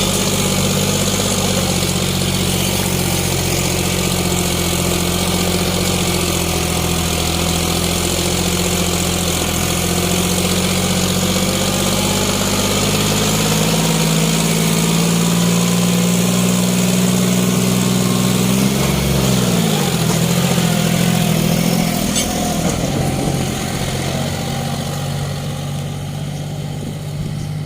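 Diesel tractor engines running under heavy load while pulling a fully loaded trolley. About two-thirds of the way through, the engine pitch sags and drops as the engine lugs down, then settles.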